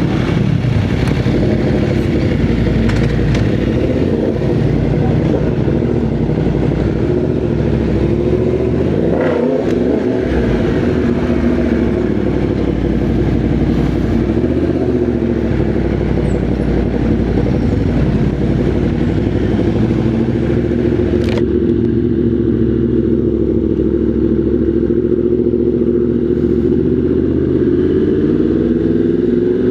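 Motorcycle engine running while under way, its pitch rising and falling as the rider opens and closes the throttle, with a sharp click about two-thirds of the way through.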